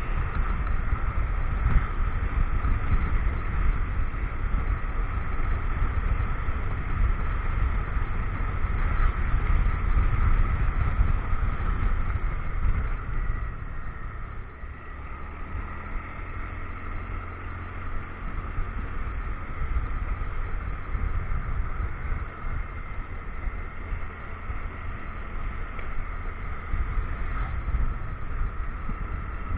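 Motorcycle riding recorded on an action camera: wind rushing over the microphone with the engine and road noise underneath. The noise eases off about halfway through, then builds back up.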